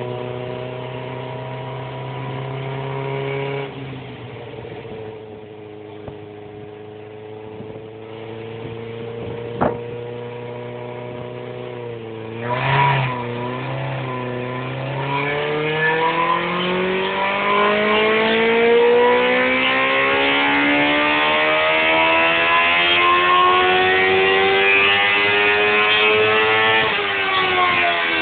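2005 Suzuki GSX-R 750 inline-four engine on a dyno: running steadily at low revs, one sharp click, and a short blip of the throttle, then one long pull with the pitch rising steadily for about fourteen seconds before the throttle closes and the revs fall near the end.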